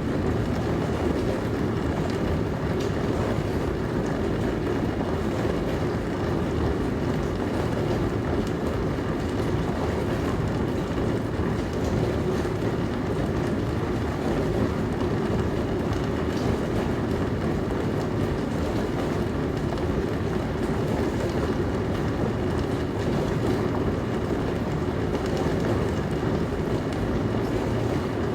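Dishwasher running with a steady, even rushing noise that sits low in pitch and does not change.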